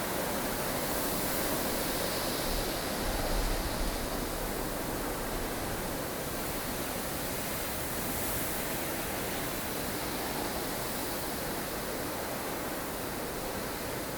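Strong wind of a blustery snowstorm blowing steadily as a dense hiss, swelling briefly with a low rumble about three seconds in.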